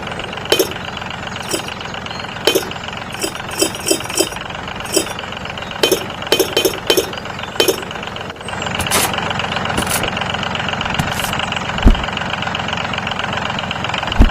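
A motor running steadily, with a series of short sharp clinks over the first half. About eight seconds in, the running sound becomes heavier and lower, and there is a single strong thump near the end.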